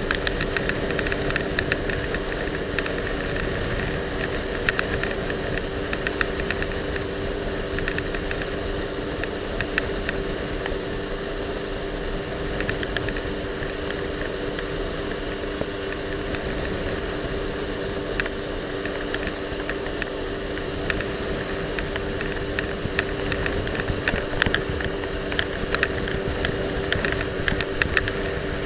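Jet ski engine running at a steady speed, a constant drone with an even hiss. Frequent sharp clicks and knocks run through it, more of them near the start and the end, from the action camera rattling loosely on the rider's life vest.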